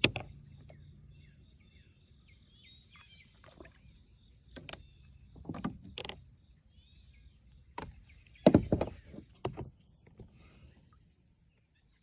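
Scattered knocks and clunks of gear being handled in a kayak, the loudest cluster about eight and a half seconds in, over a steady high insect drone and a few bird chirps.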